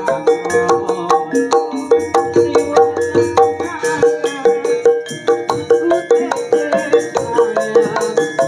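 Javanese gamelan ensemble (karawitan) playing: many struck metal tones in a quick, dense rhythm, with one ringing note repeated steadily throughout.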